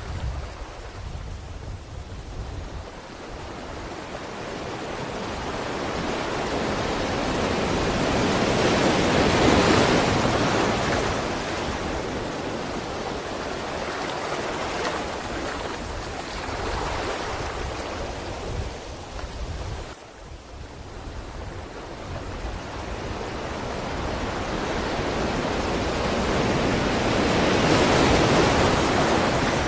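Ocean surf: waves rolling in and breaking, in slow swells that build to a loud crest about a third of the way in and again near the end, with a brief lull in between.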